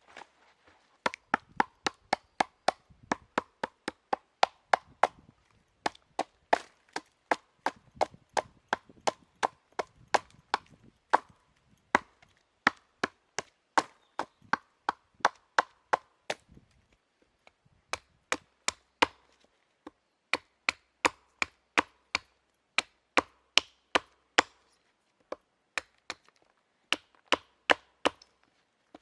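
Rapid, regular chopping on wood, about two to three sharp strikes a second with a couple of short pauses, typical of a hand blade cutting up small firewood.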